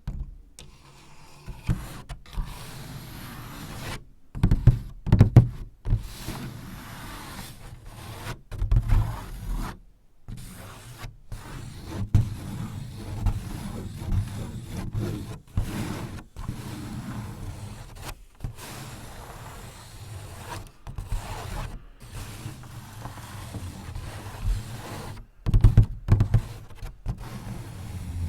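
Close-miked scraping and rubbing on the paper and frame of a Japanese paper sliding door (shoji), mixed with soft low thumps and taps. The strokes come in uneven bursts with brief silent breaks between them.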